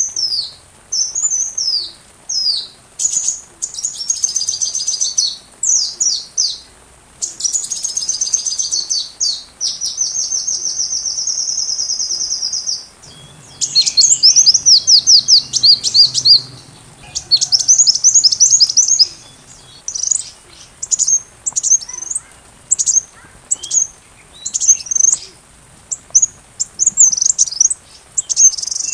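Sunbird song: quick high-pitched chirps and twitters, with a long even trill about ten seconds in and a loud, fast run of notes shortly after.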